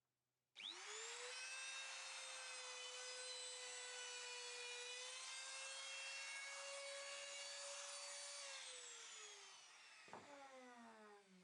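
Electric power tool motor switching on with a quick rise to a steady high whine, running for about eight seconds, then switched off and winding down in pitch, with a few knocks and rapid ticks near the end.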